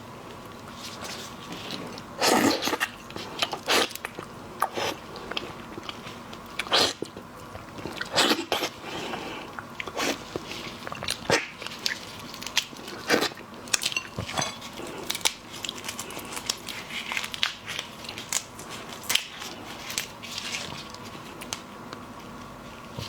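Close-up eating sounds of shrimp being bitten and chewed: irregular crisp crunches and clicks, some louder than others.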